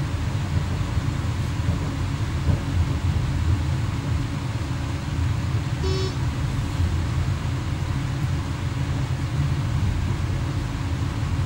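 Steady low rumble of an X11 electric multiple unit running along the track, heard from inside the driver's cab. A single short pitched tone sounds once, about six seconds in.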